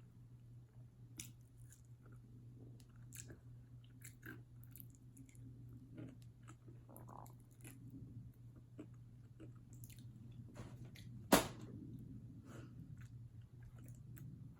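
A person chewing fried chicken wings close to the microphone, with many small wet clicks and smacks. There is one sharp, much louder click about eleven seconds in.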